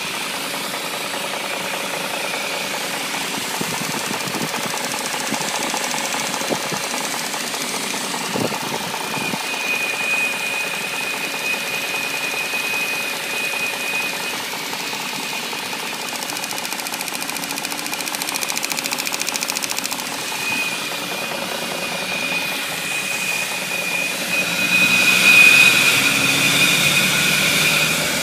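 BMW 740i engine running steadily, with a thin high whine that comes and goes over it. It gets louder for a few seconds near the end.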